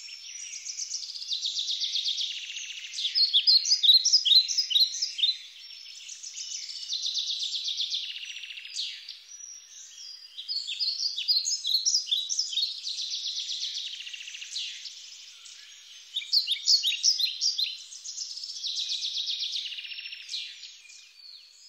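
Small songbirds singing: quick trills alternating with sharp chirps, in phrases that recur every few seconds.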